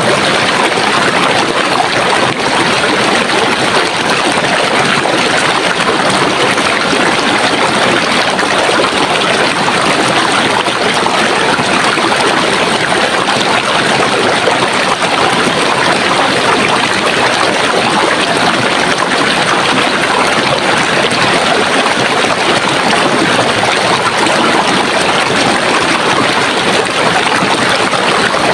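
Running water of a stream, a steady, unbroken rush with no changes.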